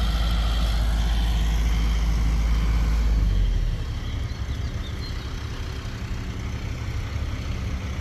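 Concrete pump truck's diesel engine running steadily with a low hum, which drops noticeably in level about three and a half seconds in.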